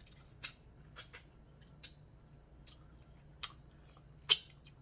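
Close-up eating sounds from a seafood boil: scattered sharp, wet clicks and smacks of chewing and handling sauced seafood, about seven in all, the loudest near the end.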